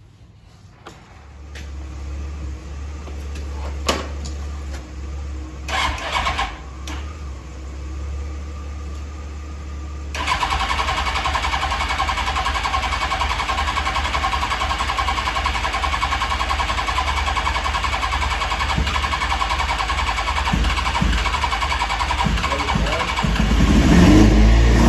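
1998 Suzuki GSX-R600's inline-four engine sputtering in a few short bursts, then catching about ten seconds in and running steadily, revved up near the end. It had not been firing for lack of spark, traced to faulty spark plugs.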